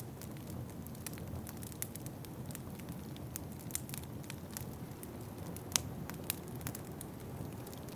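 Wood fire in a fireplace crackling, with irregular sharp pops scattered throughout, the loudest about six seconds in, over a steady low rumble.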